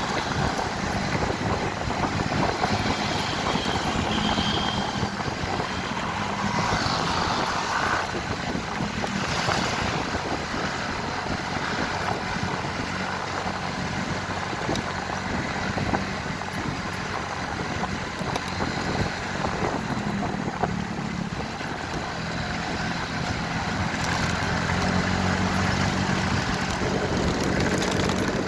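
Motorcycle engine running steadily under way, its pitch shifting a little, with a steady rushing noise over the microphone.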